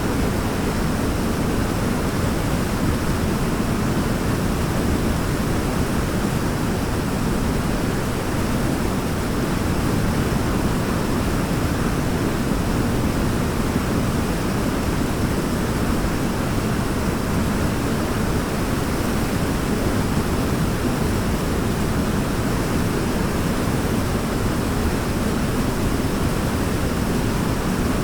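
Waterfall: a steady, even rush of falling water, strongest in the low end.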